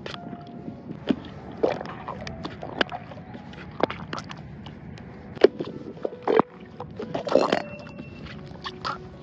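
Thick slime being squished and stretched by hand, making irregular wet clicks and pops. A low rumble of wind on the microphone runs underneath.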